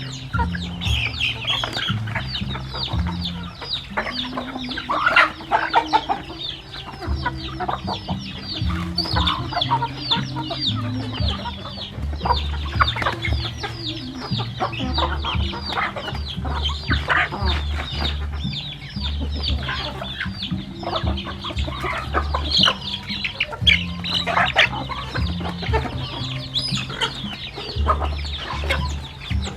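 A flock of chickens clucking and calling, many short calls overlapping without a break, over a low background music bass line.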